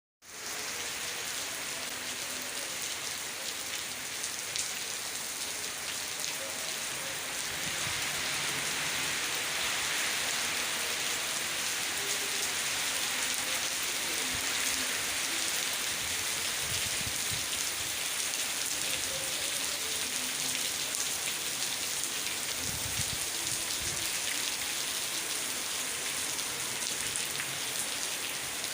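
Heavy rain pouring down steadily, growing a little heavier about eight seconds in.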